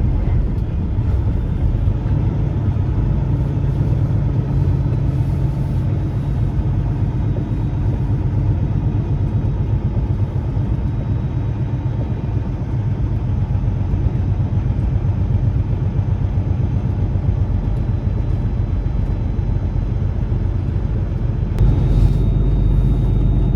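Peterbilt semi truck's diesel engine and road noise while driving: a steady low drone. Near the end the sound changes abruptly and becomes slightly louder.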